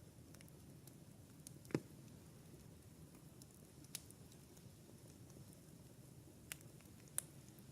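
Wood campfire crackling: a soft steady hiss with four sharp pops, the loudest about two seconds in.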